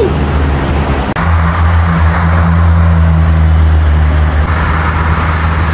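Yamaha YBR single-cylinder motorcycle engine running steadily as the bike rides off, with wind rushing over the microphone. There is a brief dip in the sound about a second in, after which the engine note holds steady.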